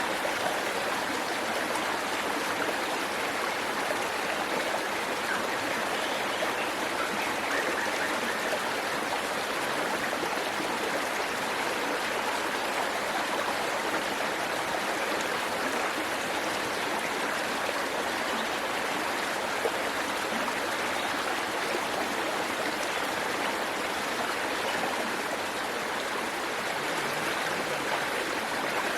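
Waterfall water rushing and splashing in a steady, unbroken roar.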